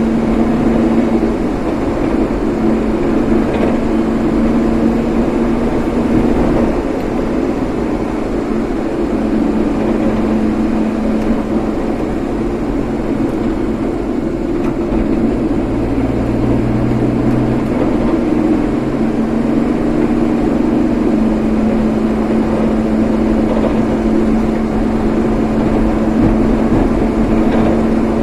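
Road vehicle driving at a steady pace: a constant engine drone with road and tyre noise.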